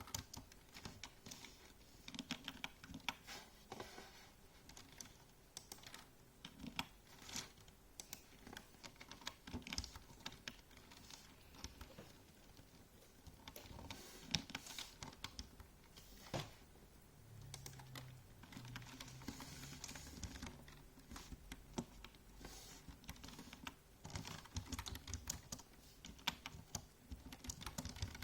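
Typing on a keyboard: a fast, uneven run of key clicks with short breaks between bursts.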